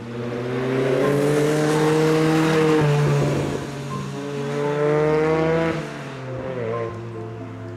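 A Ford Sierra RS Cosworth's turbocharged four-cylinder engine pulling hard as the car drives past, its note rising through the revs twice with road noise. It is loudest in the first few seconds and falls away after about six seconds.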